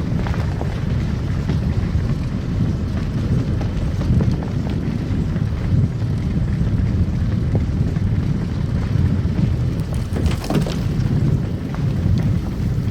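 Car driving on a snow-covered road: a steady low rumble of tyres and engine, with scattered light crackles and a brief louder rustling noise about ten seconds in.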